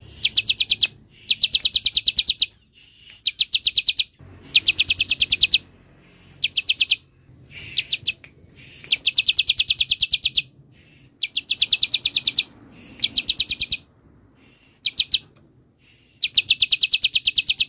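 Bar-winged prinia (ciblek) singing its 'semi' song: a series of fast, buzzy, cicada-like trills of rapidly repeated high notes, each phrase lasting about half a second to a second and a half, separated by short pauses.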